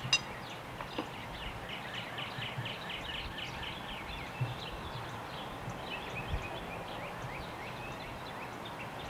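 A bird singing a quick run of repeated slurred chirps, about four a second, followed by a few scattered calls. Two light knocks near the start, a hammer on wood.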